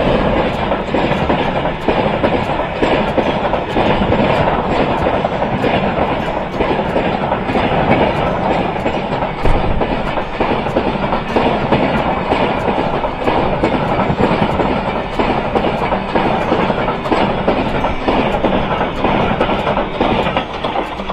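Express passenger train of LHB coaches passing at speed close by: a steady rush of steel wheels on the rails, with rapid, regular clacks as the wheels cross rail joints.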